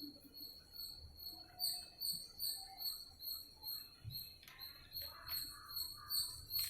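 A faint, high-pitched chirp pulsing steadily about twice a second, like an insect calling, with a few soft scraping sounds around four to five seconds in.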